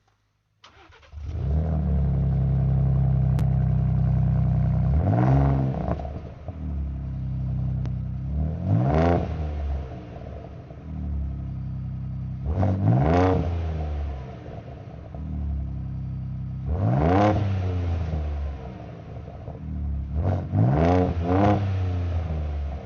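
Ford Ranger Raptor fitted with an aftermarket Borla exhaust starting up about a second in and settling to a steady idle. It is then revved four times, about every four seconds, each rev rising quickly and dropping back to idle, with a quick double blip near the end.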